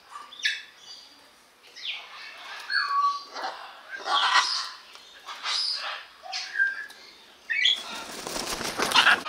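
Birds calling in short squawks and chirps, a few with brief falling notes. Near the end comes loud wing flapping, close by.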